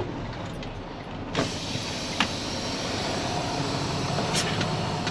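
Diesel semi truck idling with a steady low rumble. About a second and a half in, a hiss comes in suddenly and keeps going, and sharp clicks are heard twice.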